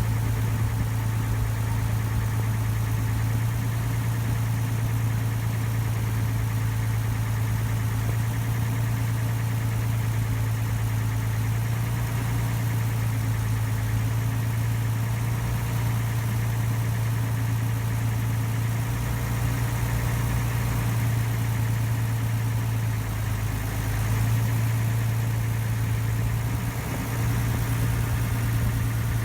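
Ferry boat's engine running steadily: a low, even hum that holds its level throughout.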